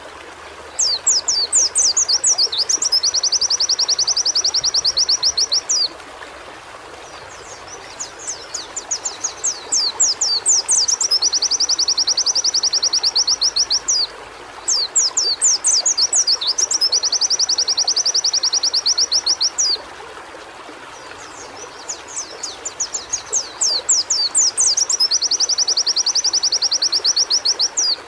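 A pleci (white-eye) singing four song phrases about every seven seconds. Each phrase is a run of quick falling notes that runs into a long, fast, buzzing trill, over a steady background hiss.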